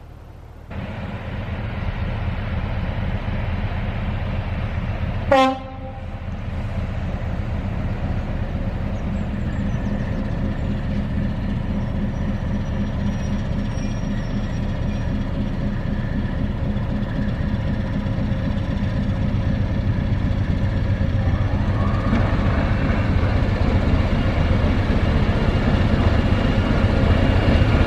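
Class 73 electro-diesel locomotive running on its English Electric diesel engine, a steady low throb, with one short horn blast about five seconds in. The engine sound grows fuller and louder over the last few seconds.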